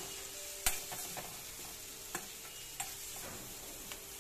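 Chopped green chillies and spices sizzling in oil in a kadai as they are stirred, with a utensil knocking against the pan a few times, the sharpest knock a little under a second in.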